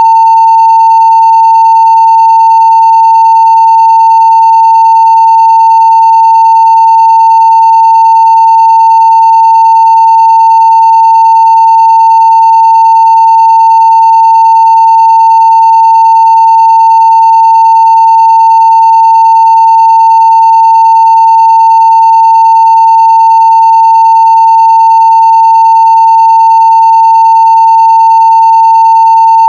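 A 900 Hz sine-wave test tone at full scale (0 dB), one pure pitch held perfectly steady and loud.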